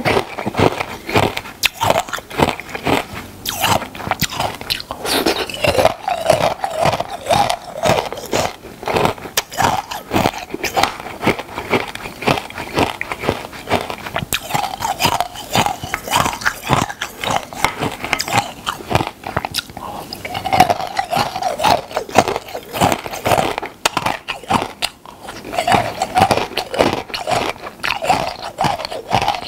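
Close-miked biting and chewing of hard, crunchy food: a steady run of loud, sharp crunches.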